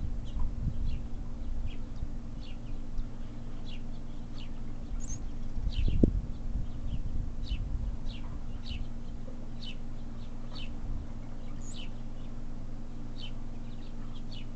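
Small birds chirping: short, falling chirps repeated about once or twice a second, over a steady low hum and rumble. A single thump about six seconds in.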